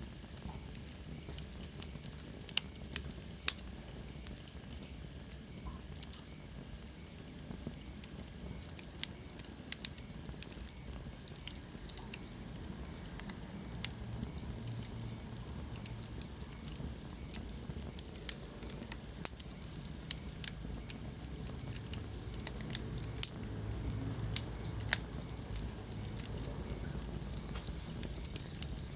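Wood fire burning in a fireplace: irregular sharp crackles and pops over a steady low rumble of the flames. A faint high whistle slides down in pitch a few seconds in.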